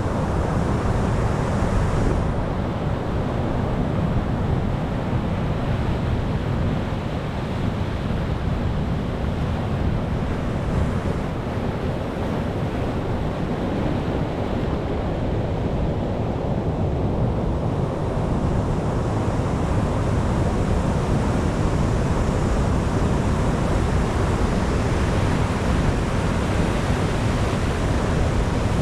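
Sea surf breaking on the shore, a continuous wash of noise with a heavy low rumble, easing slightly about halfway through and then swelling again.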